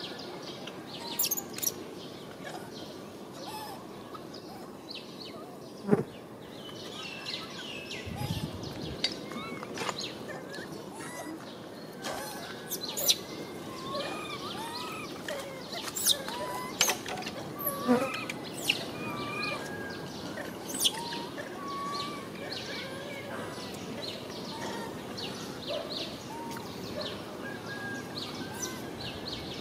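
Bird chirps, many short calls overlapping, busiest in the middle stretch, with a few sharp clicks and taps over a steady outdoor background.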